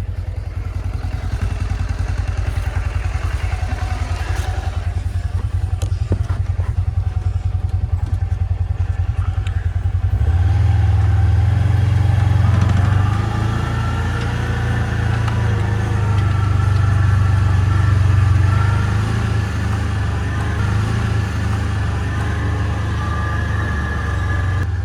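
A small off-road vehicle's engine running steadily while driving, getting louder and heavier from about ten seconds in.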